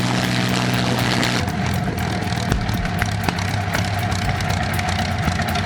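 Rolls-Royce Merlin supercharged V12 aero engine running on a test stand. Its note is steady and even at first, then turns rougher and crackly about a second and a half in.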